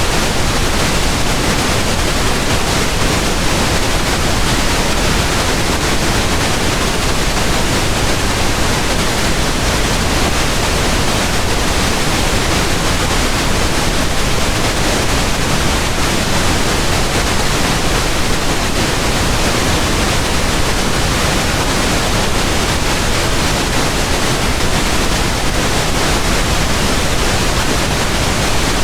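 Pink noise: a steady, even hiss with a deep rumble in it. It runs at constant loudness without any change.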